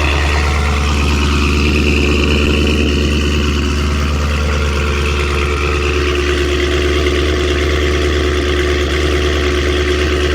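Chevrolet Camaro SS V8 exhaust idling with a steady, even low rumble.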